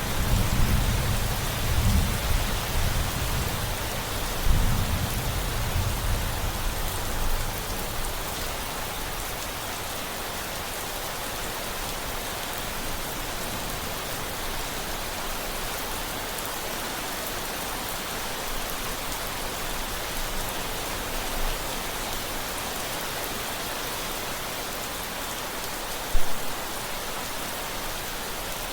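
Steady rain, an even hiss throughout. A low rumble of thunder rolls through the first several seconds and dies away. One brief thump comes near the end.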